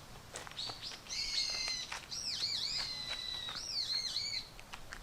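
A bird singing: a run of high whistled notes that dip and rise, lasting about three seconds from a second in, with a few soft clicks around them.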